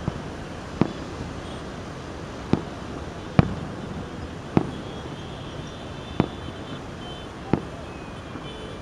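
Fireworks exploding: about seven sharp bangs at irregular intervals, heard over a steady background noise.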